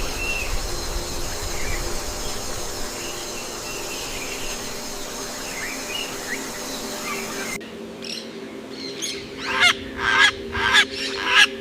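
Bird calls: faint short chirps over a steady hiss, then, after an abrupt change, four loud calls about half a second apart near the end.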